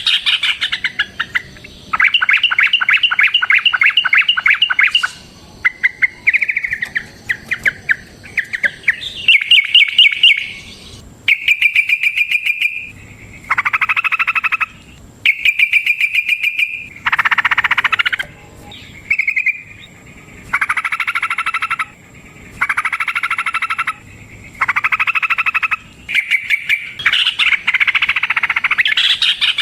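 Yellow-vented bulbul (trucukan) singing in long, fast chattering phrases: repeated bursts of rapid notes, each lasting a second or two, with short pauses between them.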